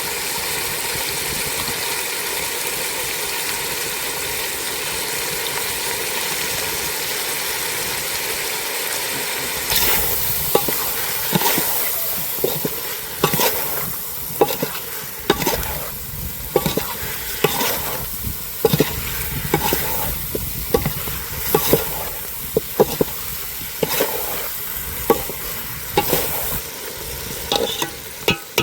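Chicken liver and gizzard pieces sizzling in hot oil in a pan, a steady hiss. From about a third of the way in, a stirring utensil scrapes and knocks against the pan in irregular strokes, roughly one or two a second.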